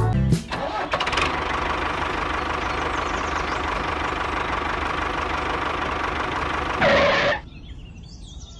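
A small motor-driven machine running steadily with a faint whine, then a brief louder surge that falls in pitch as it shuts down about seven seconds in.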